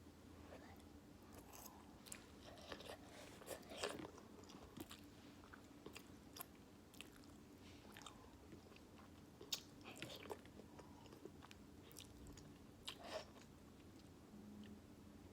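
Close-miked mouth sounds of a person eating beef noodles: chewing with scattered wet clicks and smacks, a few of them louder.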